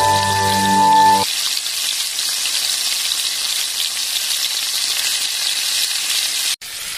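Slices of meat sizzling on a small hot griddle, a steady frying hiss, with a very short break near the end. A few notes of music play over the first second.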